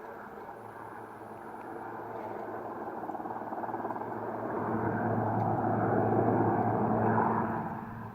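Helicopter flying past: its engine and rotor noise grows louder, peaks about six seconds in, then fades quickly.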